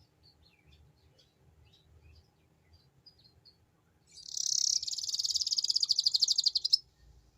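Domestic canary singing: a few faint scattered chirps, then about four seconds in a loud, very fast trill of the ngeriwik kind, lasting nearly three seconds and stopping abruptly.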